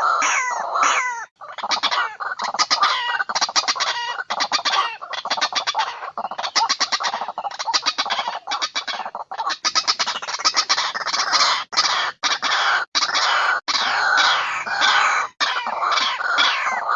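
White-breasted waterhen calls played as a bird lure: rapid, repeated 'kruak' notes, several calls overlapping in a continuous loud chorus. It is broken by a few short, abrupt gaps.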